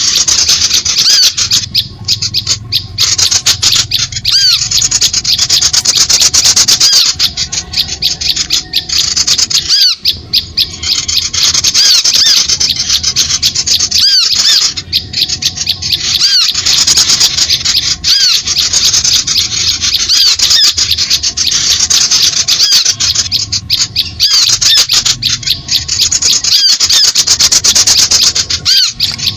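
Dense, continuous chattering of many small birds, rapid high-pitched calls and chirps overlapping without a break: a bird-trapping lure recording meant to draw small birds in.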